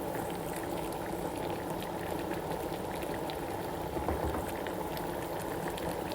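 A pot of pepper soup bubbling at a steady boil, with small pops of bursting bubbles.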